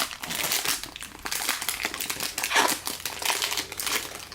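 Foil wrapper of a jumbo pack of baseball cards being torn open and crinkled by hand, an irregular run of crackling that stops abruptly at the end.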